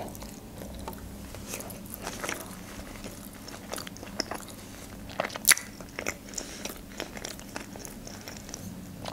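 Close-miked chewing of a mouthful of sushi roll: soft, wet mouth clicks and smacks, with a few louder clicks about five seconds in.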